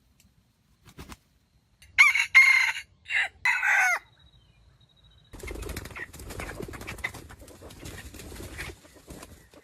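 A rooster crows once, loudly, in several linked phrases ending on a falling note. A few seconds of rustling and scratching follow, with faint clucks, much like birds moving or flapping.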